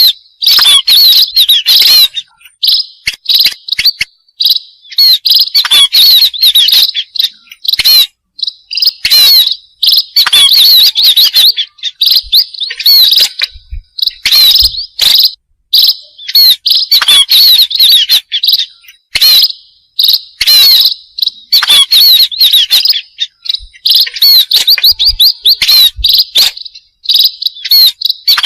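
Munias chirping: rapid, high-pitched chirps in repeated bursts of a second or two with short breaks between them.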